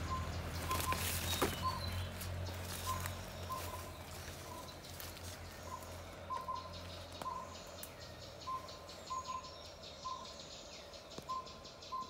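A rain-forest bird repeating a short call note, about once a second, sometimes in quick pairs, over a faint rapid insect trill. Rustling and a few knocks in the first couple of seconds.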